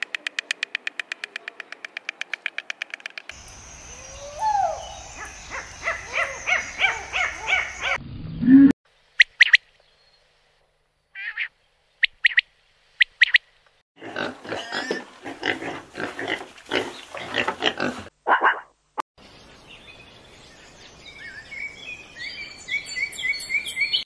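Bird calls from several different birds, one after another: a fast, even rattle in the first few seconds, then assorted chirps and short sharp calls with silent gaps between them, and near the end a run of shrill repeated notes.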